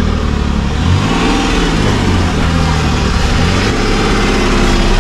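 Renault Kwid hatchback's engine running, its pitch rising and falling several times as it is revved.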